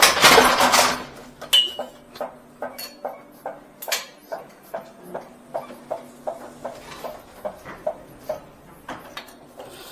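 A loud clatter in the first second, then a steady run of light clicks or clanks, about three a second.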